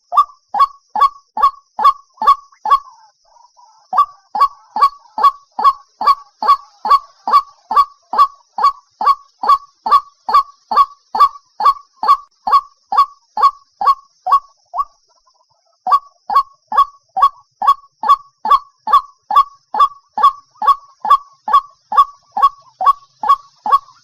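White-breasted waterhen calling: a long, steady series of short, loud notes, about two or three a second, each dropping slightly in pitch. The series stops briefly twice, a few seconds in and again about two-thirds of the way through.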